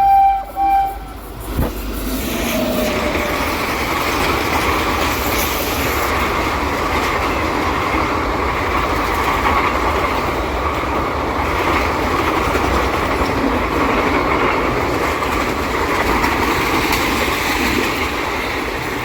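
Horn of a WAP-7 electric locomotive, cutting off about a second in, then an Indian express train passing at speed: a steady, loud rumble and rattle of coaches and wheels on the rails.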